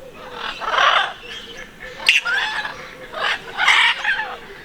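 Captive birds calling: three loud bursts of calls with quieter chirps between them.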